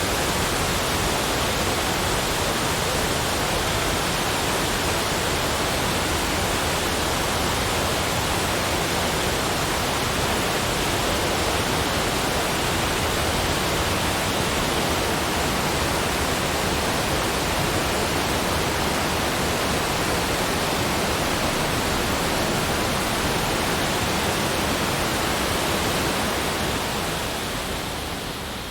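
Steady rushing of water, like a waterfall: an even hiss with no separate splashes, dipping slightly in level over the last couple of seconds.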